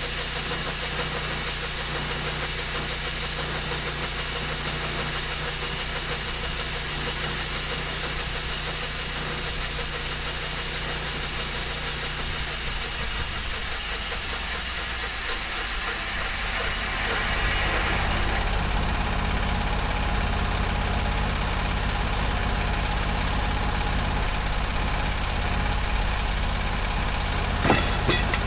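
Norwood HD38 portable bandsaw sawmill running, its engine under load with a loud high hiss of the cut. About two-thirds of the way in the hiss stops and the engine runs on at a lower, steadier note, with a couple of sharp clicks near the end.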